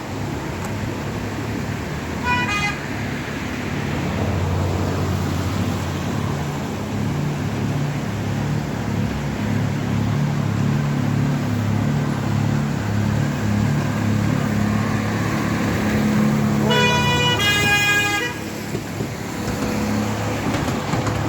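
Miniature railway locomotive approaching and passing with its engine running steadily. It sounds its horn once briefly about two seconds in, then gives two toots near the end.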